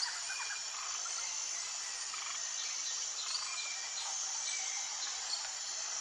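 Outdoor nature ambience: a steady high drone of insects with scattered short bird chirps over it.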